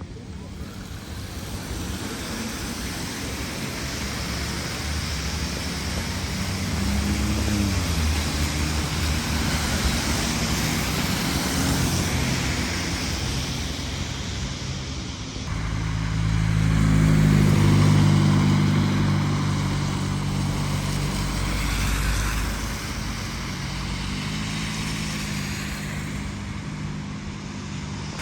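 Road traffic passing on a snowy city street: vehicle engines running over a steady tyre hiss, building up over the first half, with one vehicle loudest a little past the middle.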